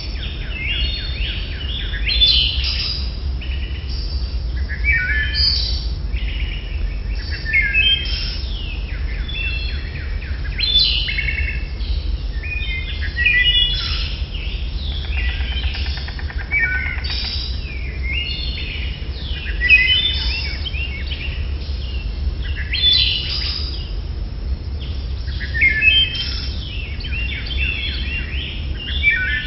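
Birds chirping and calling repeatedly in short, high calls, with louder bursts every few seconds, over a low steady rumble.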